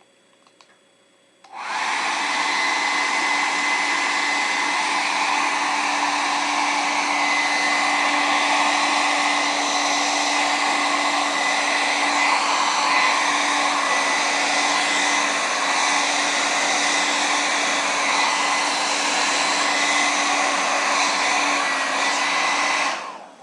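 Hair dryer switched on about a second and a half in, blowing steadily, then switched off near the end. It is heating a book's cover to soften the binding glue.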